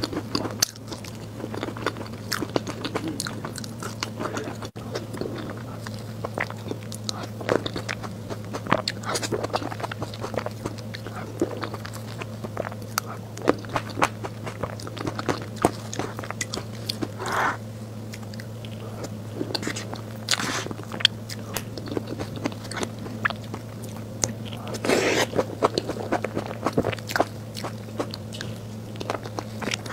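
Close-miked chewing and biting of cream-filled chocolate sponge cake with fruit: many small wet clicks and mouth sounds, in louder clusters now and then, over a steady low hum.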